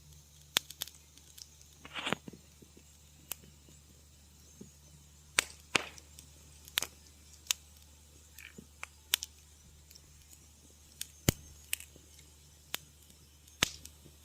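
Wood fire crackling in a fireplace: about a dozen sharp pops and snaps at irregular intervals, the loudest about eleven seconds in, over a low steady hum.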